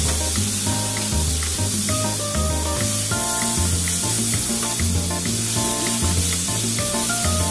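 Diced chayote sizzling as it is sautéed in a wok and stirred with a wooden spatula, under background music with a steady bass line.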